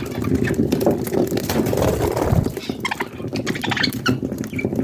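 Budgies chirping in short high notes over a busy, rapid pattering.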